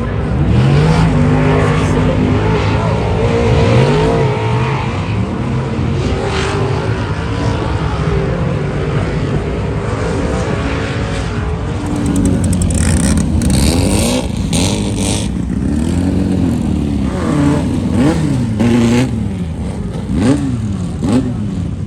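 Off-road race vehicle engines revving up and down over and over, the pitch rising and falling in repeated sweeps that come quicker and sharper in the second half.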